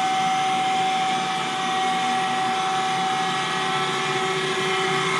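Schaudt cylindrical grinder running steadily under power, its 20-inch grinding wheel, hydraulic table and coolant pump giving an even hum with a constant high whine. The machine sounds smooth and runs fairly quietly.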